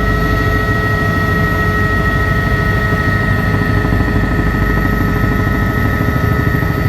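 Helicopter in flight: steady turbine and rotor noise with a fast, even low beat from the blades and a steady high whine on top.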